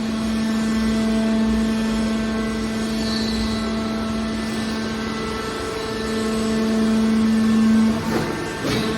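Hydraulic metal baler running, with a steady hum from its hydraulic power unit. The hum grows louder about six seconds in, then drops away near the end with a few knocks.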